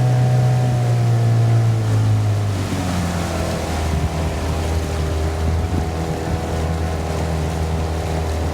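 Boat engine running steadily, then dropping to lower revs about two and a half seconds in and running on at the lower speed, with wind and water noise.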